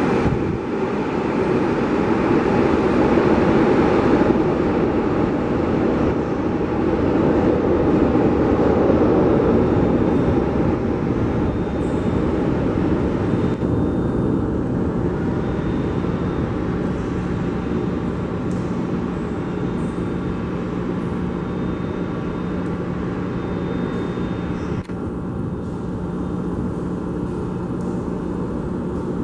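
São Paulo Metro train running through an underground station, a loud steady rumble that eases off over the first half. It settles into a lower steady hum with a constant low tone.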